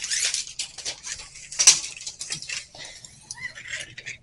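Handling noises: scraping and rustling with scattered clicks, and one sharp click about halfway through.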